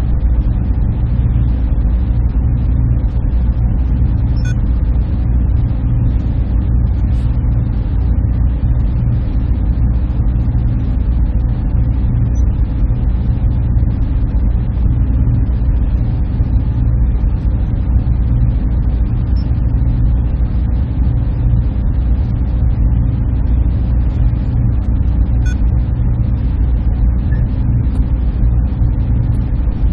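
Steady low hum and rush of a server room's machinery running continuously, the sound concentrated low with a fainter airy hiss above and a few tiny faint ticks.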